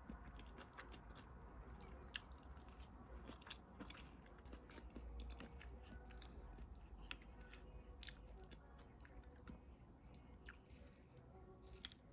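Faint chewing and crunching, heard as many small irregular clicks over a low background hum, with a brief rustle near the end.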